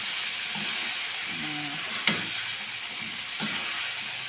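Chicken pieces sizzling in a thick spice sauce in a wok while a spatula stirs them, with a sharp knock of the spatula against the pan about two seconds in.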